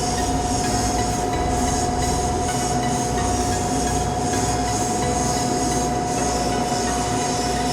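Airbrush compressor running steadily with a constant whine, and air hissing from the airbrush in uneven swells.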